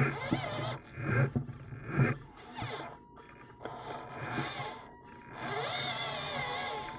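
Small electric motors of RC construction machines whining, rising and falling in pitch, with scraping of dirt and a few knocks.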